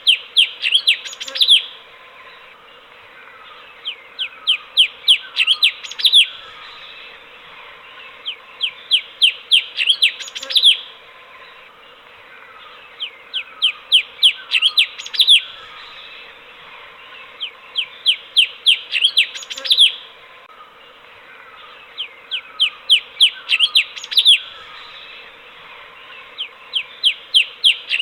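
Cucak cungkok, a bulbul, singing the same phrase over and over, about every four and a half seconds: a quickening run of short, high, downward-sweeping notes ending in a louder final note. A faint steady hiss and hum lie under the song.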